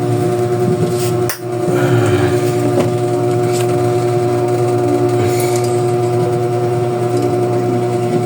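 Scattered light clicks and taps from hand work on bicycle parts, over a steady hum.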